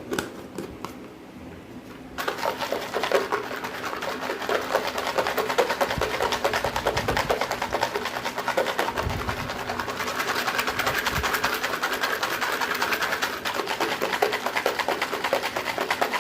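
A small restored 1960s manual machine's mechanism running with a rapid, even clicking, starting about two seconds in.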